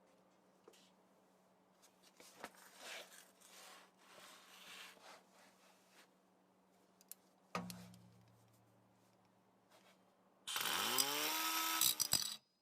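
Faint handling clicks and rustles with one dull thump, then a power tool starts loud near the end, its pitch dipping and rising as it runs.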